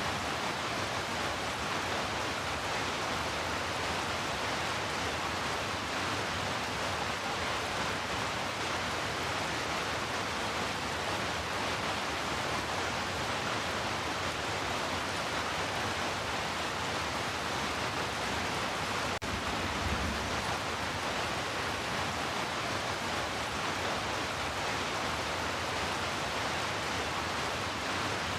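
Heavy rain falling as a steady, even hiss with no let-up, with a brief low thud about two-thirds of the way through.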